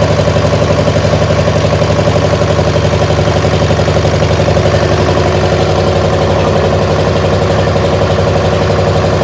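Armstrong Siddeley diesel engine on a Massey baler running steadily at idle with an even, pulsing beat, firing on only one of its two cylinders: the second cylinder's injector isn't firing, so that cylinder stays cool.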